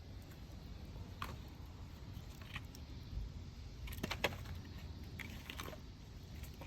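Wood bonfire crackling, with a handful of sharp, irregular pops over a low steady rush; the loudest pop comes about four seconds in.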